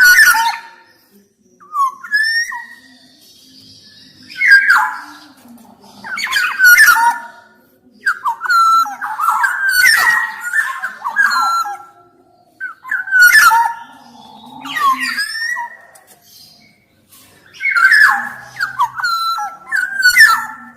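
Black-naped oriole (kepodang emas) singing in repeated bursts of gliding whistled and harsher notes every couple of seconds. Longer, busier phrases come about eight to twelve seconds in and again near the end.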